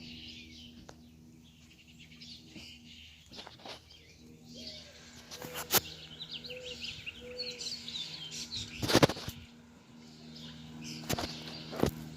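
Small birds chirping over a steady low hum, with several sharp knocks or bumps; the loudest comes about nine seconds in.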